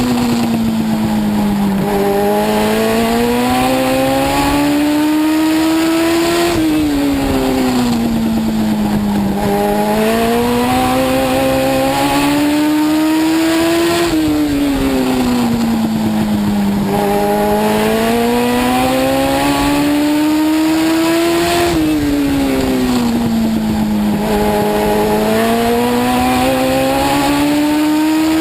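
Legend race car's Yamaha motorcycle-derived four-cylinder engine heard from inside the car, running hard around a short oval: the pitch drops as the driver lifts for each turn and climbs again on each straight, in a regular cycle about every seven to eight seconds.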